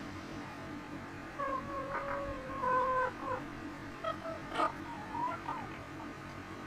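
Chickens calling: a few drawn-out, pitched hen calls about a second and a half in, then shorter ones, with one sharp click a little past the middle.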